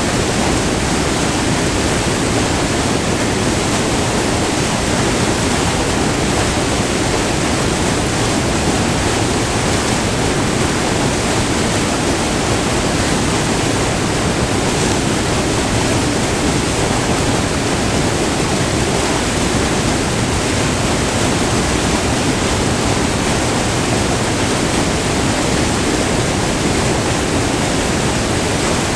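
Multi-tiered river waterfall: white water falling and rushing over rock close up, a loud, steady rush of water.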